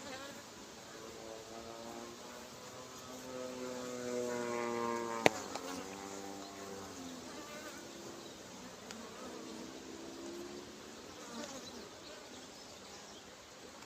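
Honey bees buzzing around an open hive, single bees flying close past with buzzes that rise and fall in pitch, loudest about four to five seconds in. A single sharp click about five seconds in.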